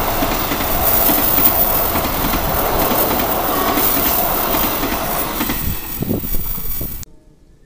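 Passenger coaches of an Indonesian KAI train passing close by: a loud, steady rumble of steel wheels on the rails with clacks of the wheels over rail joints. The sound cuts off abruptly near the end.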